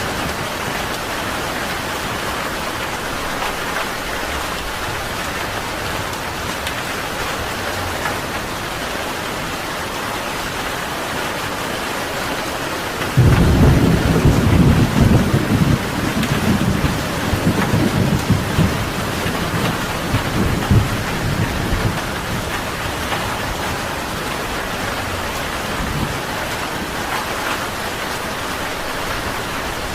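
Steady heavy rain falling, with a thunderclap breaking in suddenly about halfway through and rumbling on in rolling peaks for several seconds before fading back to the rain.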